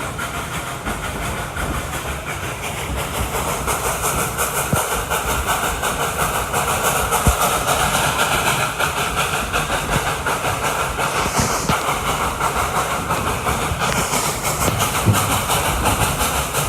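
A 2-8-2 steam train under way, heard from aboard: a steady rush of steam hiss and running noise with the clatter of the cars on the rails.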